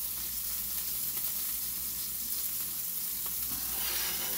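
Beef burger patties frying in a hot skillet: a steady sizzle, swelling briefly near the end.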